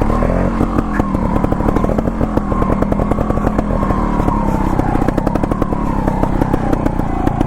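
Gas Gas TXT 280 Pro trials bike's single-cylinder two-stroke engine running at low revs, the pitch rising and falling as the throttle is worked. The owner says it runs on a too-rich 32:1 premix that makes it stumble off idle.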